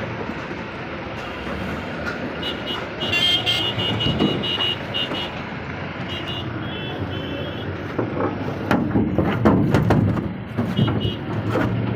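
Caterpillar excavator's diesel engine running steadily, with a high beeping tone sounding in short repeated pulses. Several sharp knocks or clanks, the loudest sounds, come about two-thirds of the way through.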